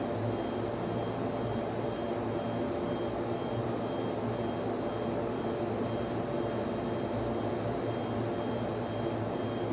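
Server room ambience: cooling fans and network equipment running with a steady hum, several low tones and a faint high tone that pulses about twice a second.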